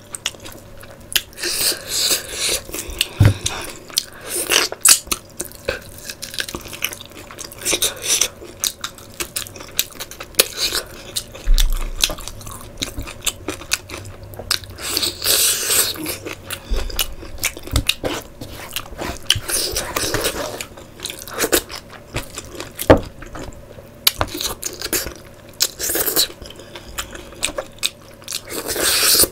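A person chewing curried meat eaten by hand, close to the microphone, with many small mouth clicks and short wet bursts.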